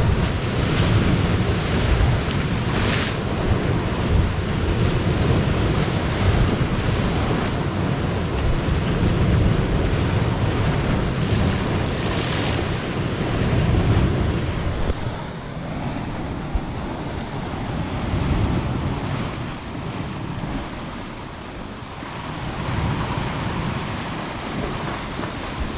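Big ocean waves breaking and surf rushing, a continuous loud roar with wind buffeting the microphone. The sound turns duller and somewhat quieter about halfway through.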